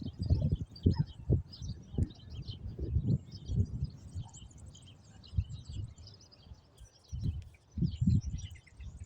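Small birds chirping and twittering continuously in short high notes, over irregular low rumbling bumps, loudest near the start and again near the end.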